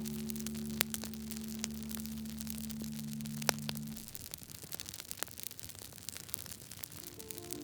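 Wood fire crackling, with scattered sharp pops and snaps. A held low music chord sounds under it and stops about four seconds in.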